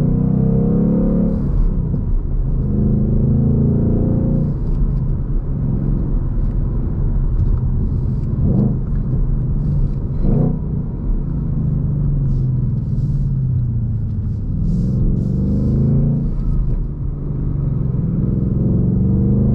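Ford Mustang Mach 1's 5.0-litre V8 exhaust pulling hard: the engine note climbs in pitch several times, each climb broken off by a gear change, with a steadier cruising stretch and two short blips in the middle.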